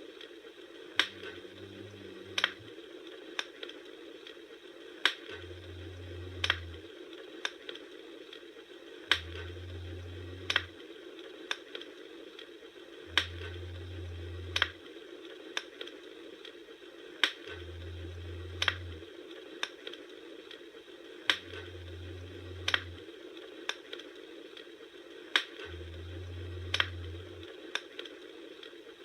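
Campfire burning: irregular sharp pops and snaps of the wood, about one or two a second, over a steady hiss, with a low rumble that swells in for a second or so every four seconds.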